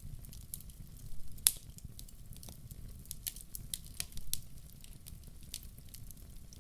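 Wood fire in a fireplace crackling, with scattered sharp pops, the loudest about one and a half seconds in, over a low steady rumble.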